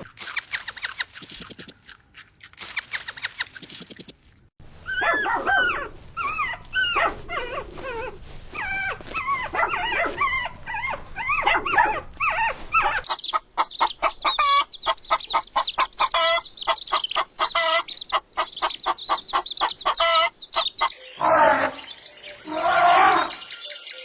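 A series of animal calls: short high whining and yelping cries that rise and fall, then a fast pulsing run of calls, with louder, lower calls near the end.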